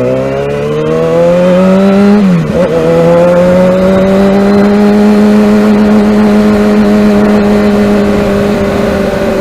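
Kawasaki ZX-6R 636 sport bike's inline-four engine pulling hard under acceleration, its pitch climbing, with a quick drop at an upshift about two seconds in, then holding a high, steady note at speed under wind noise.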